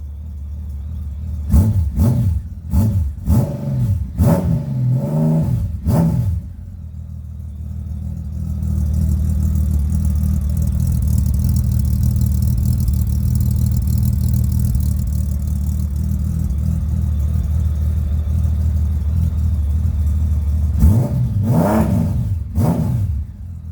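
Honda Valkyrie's flat-six engine running through custom one-piece truck-stack exhausts with the stock silencers removed, leaving only the glass packs. It is revved in a series of quick blips, then settles into a long steady idle, and is blipped twice more near the end.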